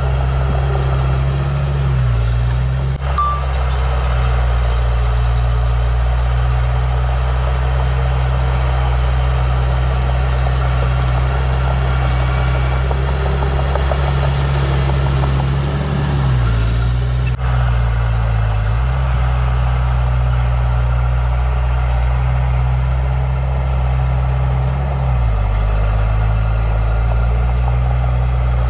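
Heavy diesel engine of construction machinery running steadily, its engine speed dipping and shifting a few times.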